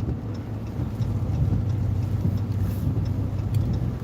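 Car interior road noise: the engine and tyres running with a steady low drone while driving slowly.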